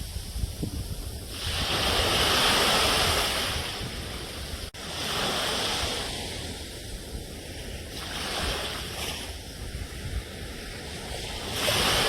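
Sea waves breaking and washing on the shore, the surf swelling and falling away every few seconds, with a momentary break in the sound a little before halfway.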